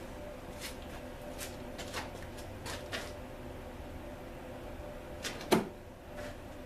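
Scattered light clicks and taps of objects being handled, with one sharper knock about five and a half seconds in, over a faint steady hum.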